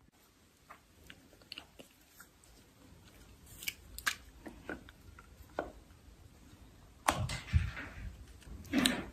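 Chalk being crunched up close: scattered small crackles and snaps, then two louder crunches, one about seven seconds in and one near the end.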